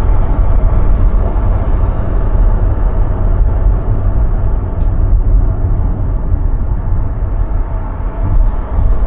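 A car driving along a road: a steady, loud, low rumble of road and wind noise.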